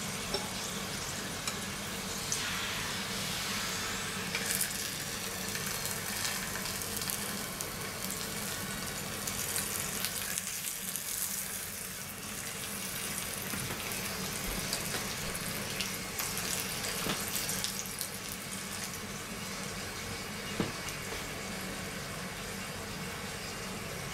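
Flatbread cooking on a flat griddle over a portable gas stove: a steady sizzle with burner hiss, broken by a few light clicks of metal tongs against the pan and plate.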